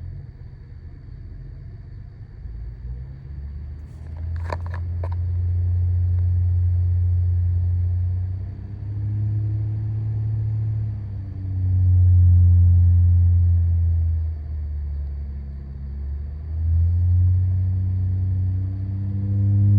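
Low droning noise from a 2015 Honda Accord V6 with automatic transmission, swelling and fading several times with slight rises and falls in pitch; its cause is not known to the owner.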